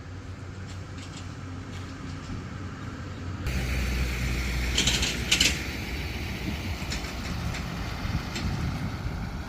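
Motorboat engine running steadily under way. About three and a half seconds in it becomes louder and fuller, with two brief hissing bursts around five seconds in.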